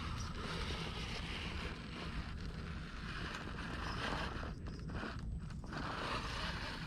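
Axial Capra RC rock crawler working its way over boulders, its electric motor and geared drivetrain running steadily.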